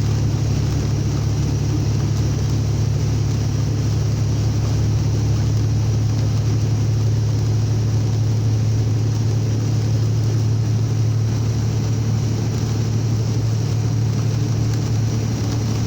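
Steady in-cab drone of a vehicle driving on the highway: a constant low engine and drivetrain hum under an even wash of road and tyre noise, with no change in pace.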